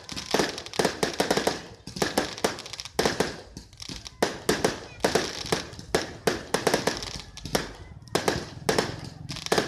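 Fireworks going off in quick, irregular bangs and crackles, several a second with no pause.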